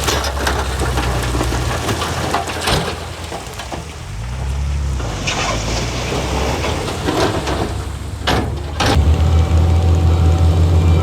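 Heavy diesel construction machinery running, its low engine note shifting around the middle and getting louder near the end, with several sharp knocks or clanks.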